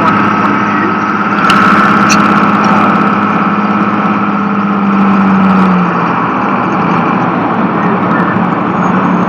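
Tow truck's engine running and road noise heard from inside the cab while driving, a steady drone whose pitch dips slightly about six seconds in, with a couple of faint clicks about two seconds in.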